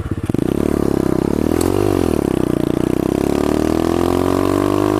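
Pit bike engine running under way. Its pitch rises and falls briefly about two seconds in, then climbs steadily as the bike accelerates.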